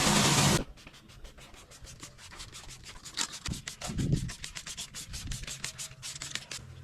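A loud rushing noise cuts off suddenly about half a second in. It is followed by rapid, faint scratchy rubbing strokes of scrubbing or wiping on a surface.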